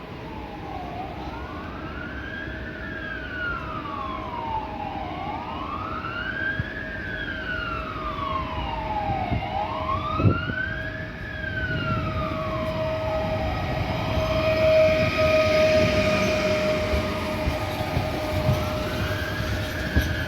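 An emergency vehicle's siren wailing, its pitch rising and falling slowly, one cycle about every four seconds, over a steady hum that grows louder midway. A single knock sounds about ten seconds in.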